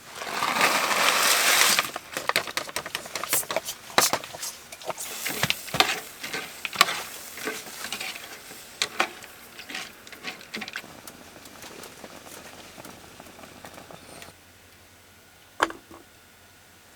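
Handling noise from preparing a camp dinner: a rushing, rustling noise for about two seconds, then scattered clicks and crackles that thin out and stop. Near the end there is one loud click.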